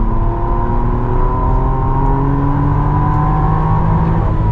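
Sports car engine heard from inside the cabin under acceleration on a track, its pitch climbing slowly, then dropping about four seconds in as it shifts gear.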